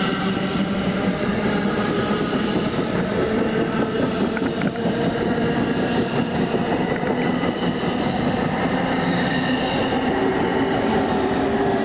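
NJ Transit Multilevel coach running on the rails behind an ALP-46 electric locomotive, heard from on board: a steady rumble of wheels on track with several steady tones over it.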